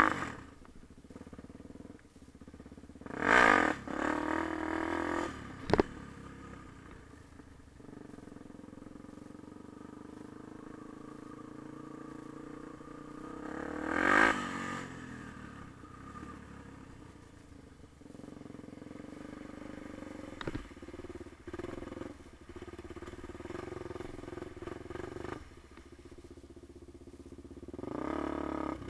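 Yamaha TT-R250 dirt bike's single-cylinder four-stroke engine running at low revs, with sharp revs that rise and fall about three seconds in and again around halfway, and a short click near six seconds.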